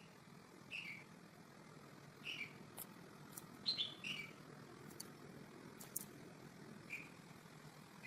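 A small bird giving short, faint, falling chirps, about five of them spread irregularly, with a few sharp faint clicks between them over a low steady background hum.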